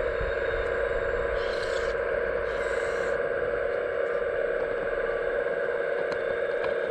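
Small electric hydraulic pump of a scale RC excavator whining steadily, with two brief scraping sounds about one and a half and two and a half seconds in, and a few light clicks near the end.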